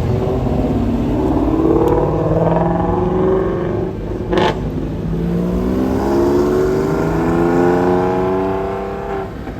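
A car accelerating hard away. Its engine note rises through one gear, breaks with a short burst of noise at the shift about four and a half seconds in, then climbs again through the next gear.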